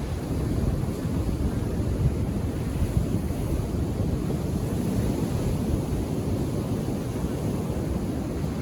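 Ocean surf washing onto a beach, a steady low rumble of breaking waves, with wind buffeting the microphone.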